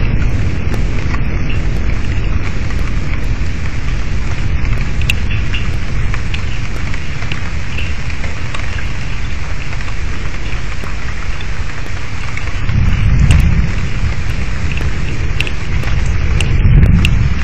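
Heavy rain falling steadily, with scattered sharp ticks of drops close to the microphone. Low thunder rumbles swell up twice, about thirteen seconds in and again near the end.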